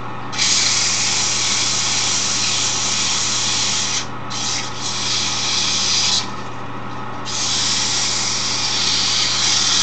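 Wood lathe running with a steady hum while about 100-grit sandpaper is held against the spinning wooden handle, making a loud hiss in three long stretches with short breaks about four and seven seconds in.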